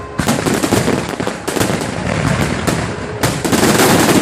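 Fireworks going off in rapid volleys of bangs and crackles, growing denser and louder about three seconds in.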